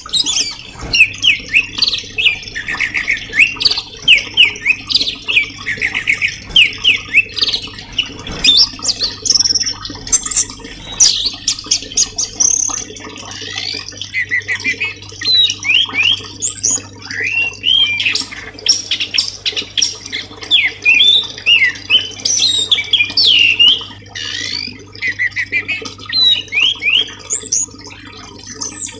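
Songbird masteran (bird-training) recording: birdsong in fast, continuous runs of short high chirps, quick whistled sweeps and squawks.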